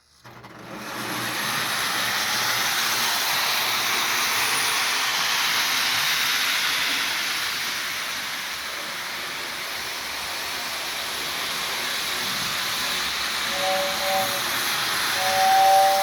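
Lionel 2055 O-gauge toy steam locomotive running on tinplate track, a steady hiss of wheels and motor. Near the end the 2026W tender's two-tone whistle blows once briefly, then again held longer.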